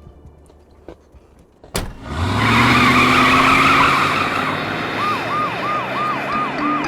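After a sharp click, a car engine revs up loudly with a rising pitch, with a harsh hiss over it. About five seconds in, a police siren's fast yelp starts, rising and falling about three times a second.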